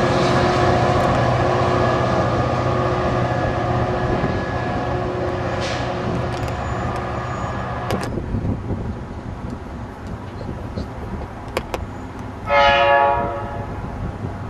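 Passenger train running at a station, a steady rumble with a few held tones that drops away sharply about eight seconds in. Near the end a train horn sounds one short blast of about a second, the loudest sound here.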